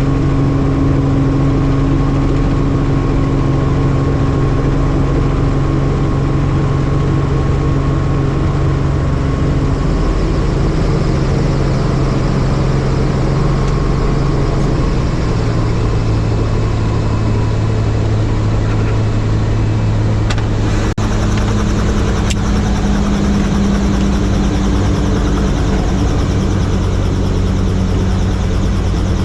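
Helicopter drone of engine and rotor, running steadily with a low hum. The pitch of the hum drops slightly about halfway through, and the sound briefly cuts out about two-thirds of the way through.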